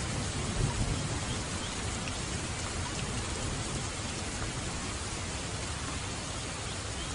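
Steady rain falling, a constant hiss with scattered drop ticks, over a low rumble of thunder that eases off after the first second or so.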